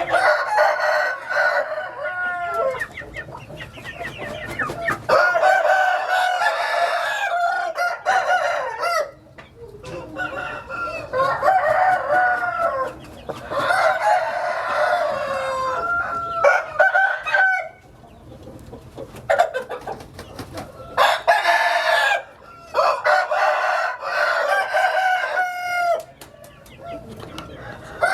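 Several roosters crowing again and again, their long calls often overlapping, with clucking between the crows.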